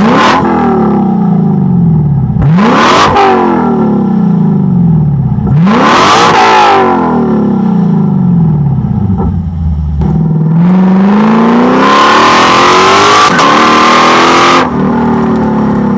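Lexus LC500's V8 through a Fi catback exhaust, revving hard: short rises in pitch about a second in, near three seconds and near six seconds, each falling away slowly with the exhaust crackling on the overrun. Later a long rev climbs steadily for about four seconds, then cuts off sharply.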